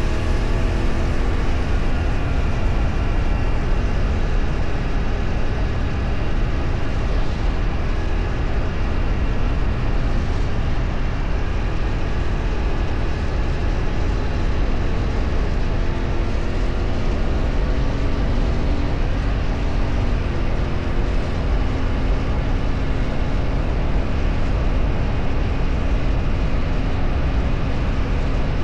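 A vehicle engine running on the move, its pitch rising and falling with changes in speed, over a heavy, steady wind rumble.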